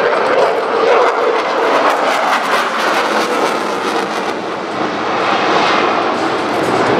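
Jet noise from a Dassault Rafale C's twin Snecma M88 turbofans as the fighter flies its display, loud and continuous with a crackling edge. It eases slightly a little past halfway, then builds again.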